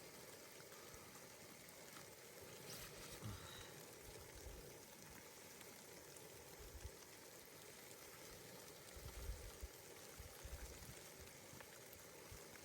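Near silence: a faint steady hiss, with a few soft low bumps around nine to ten seconds in.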